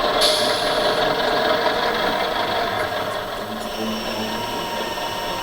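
Radio-controlled model truck or construction machine running steadily, its engine sound and drive making a mechanical hum. A short hiss comes right at the start and fades over about a second.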